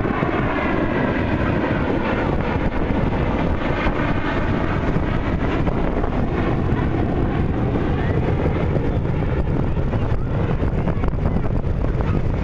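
Steady jet noise from a B-2 Spirit bomber's four turbofan engines passing overhead, mixed with wind buffeting the microphone.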